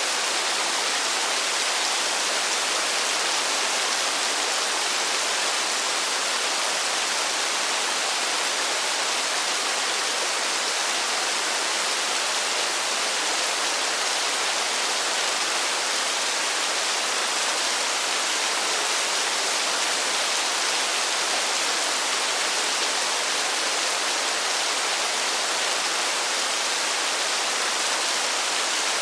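Steady rain, an even hiss with no distinct drops standing out, holding level throughout.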